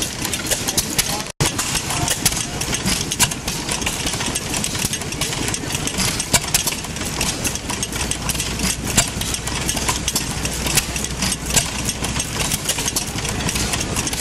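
Side-shaft hit-and-miss gas engine running, with frequent sharp clicks over its steady noise and a momentary dropout about a second and a half in.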